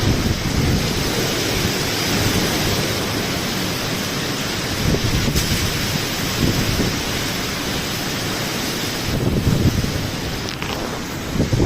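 Heavy cyclone rain pouring steadily while strong wind gusts rumble and buffet the microphone, swelling and easing.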